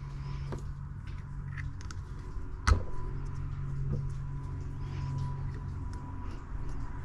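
Small clicks of pressure-washer pump seal parts being handled and fitted into the pump manifold, with one sharp knock a little under halfway through, over a steady low hum.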